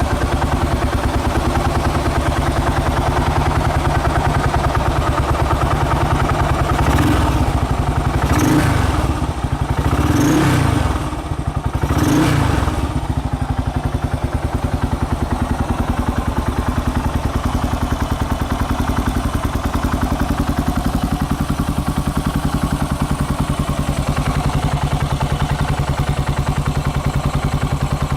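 Yamaha SR400 single-cylinder engine, bored to 534cc and running an FCR41 carburettor, idling steadily through its exhaust while warming up from a cold start. About seven seconds in, the throttle is blipped three times in quick succession, the revs rising and falling each time before it settles back to idle.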